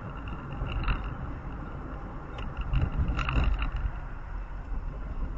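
Road vehicle driving, a steady low rumble of engine and tyres, with short knocks or rattles about a second in and again around three seconds in.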